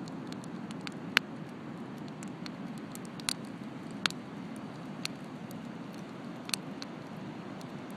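Wood bonfire crackling, with a handful of sharp pops, the loudest about a second in and again near the middle, over a steady low rush.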